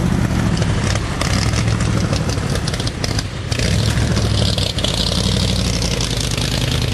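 Stroked Ford 460 big-block V8, bored out to 521 cubic inches, running steadily at idle in a Cobra replica, its low rumble swelling slightly about a second in and again a few seconds later.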